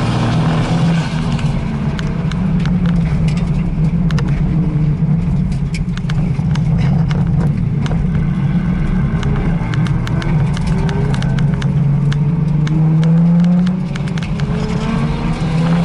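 A drift car's engine running hard on the circuit, its pitch climbing and easing repeatedly, with a sharp drop in level about 14 s in. Many sharp clicks are scattered through the sound.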